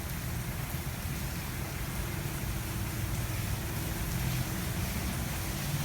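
Laser Wash 360 Plus touchless car wash applying its lava foam: a steady hiss of spray on the car with a low, even machine hum under it.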